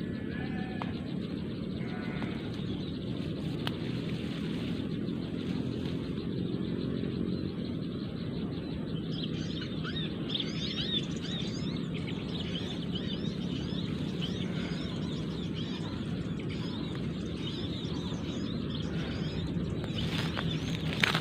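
Small birds chirping rapidly over a steady low rumble, the high chirps thickening from about nine seconds in.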